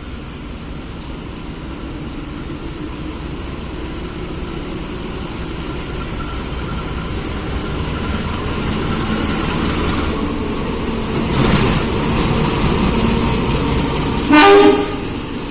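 A train running into the station, its rumble of wheels and engine growing steadily louder with some faint high squealing. Near the end the train horn gives one short blast, the loudest sound.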